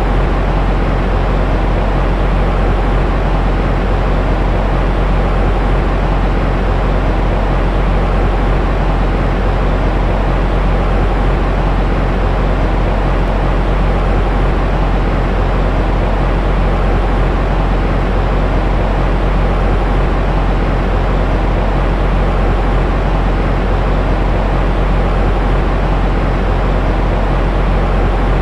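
Steady, unchanging noise from a sleep-aid white-noise track, deep and weighted toward the low end, with little hiss at the top.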